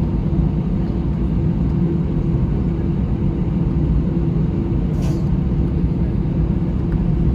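Airbus A320 cabin noise while taxiing after landing: a steady low rumble from the engines at idle. A brief hiss comes about five seconds in.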